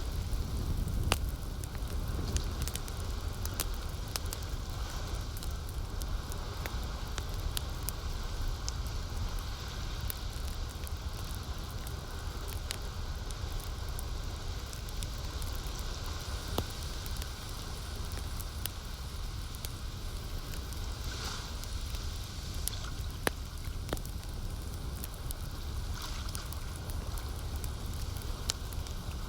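Campfire crackling, with frequent sharp pops and snaps scattered over a steady low wash of lake water.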